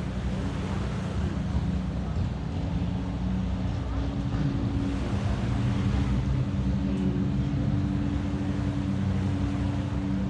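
Longtail boat engine running with a steady low drone, over a wash of wind and surf.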